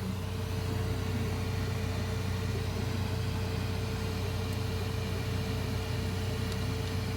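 3D printer running, a steady hum of its fans and motors with a thin constant whine over it.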